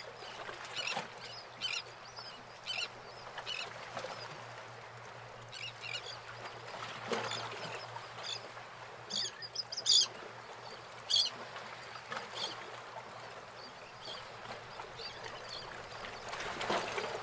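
Birds chirping: short high calls repeated irregularly, over a steady low hum.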